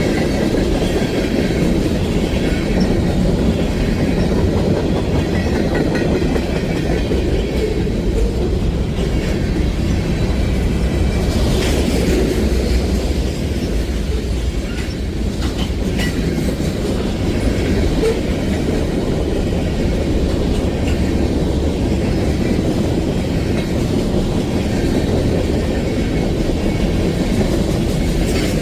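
Freight train rolling past: a steady rumble of railcars on the track, with a few sharp wheel clicks on the rails about halfway through.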